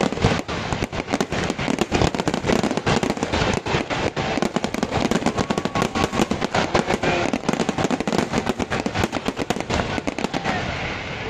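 Fireworks going off in a rapid, continuous barrage of bangs and crackles, thinning out near the end.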